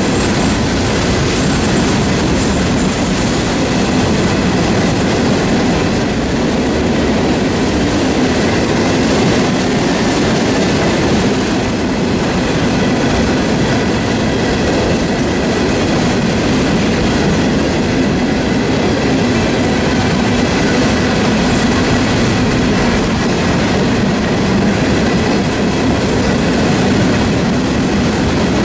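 A freight train of empty intermodal well cars rolling past at steady speed: a continuous rumble and clatter of steel wheels on the rails. A thin, steady high ringing tone runs over it.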